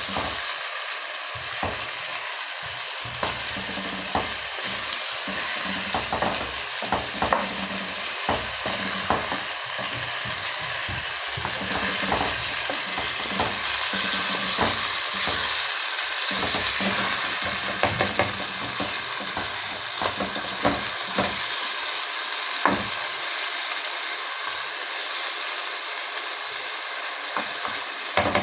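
Chicken frying in a pot with a steady sizzle. The pot clanks and scrapes with frequent short clicks as it is stirred.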